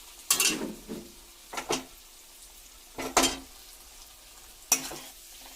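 Chicken pieces coated in ground spices frying in hot oil with a faint sizzle, while a spoon scrapes and stirs them round the pan four times, about every second and a half.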